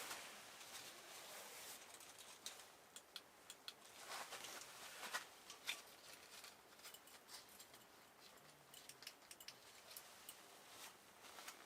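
Wood campfire crackling faintly, with irregular sharp pops and ticks, and a couple of soft rustling swells around four and five seconds in.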